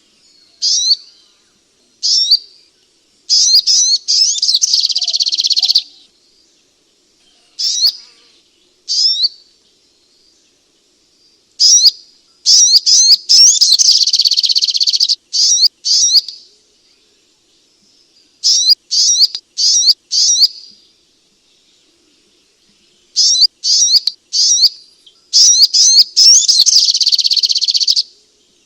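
Sunbird calling: groups of sharp, high chirps separated by short silences, three times running into a longer, fast trilling phrase.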